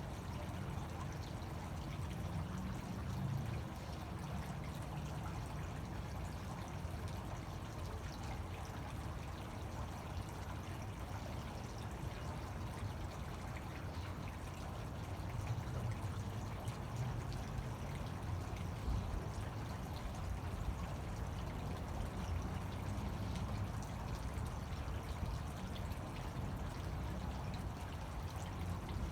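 Fountain water splashing and pouring steadily into its basin.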